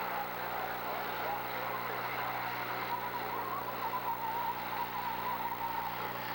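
Demolition derby car engines running in a steady din, with a wavering high whine through the middle and later part.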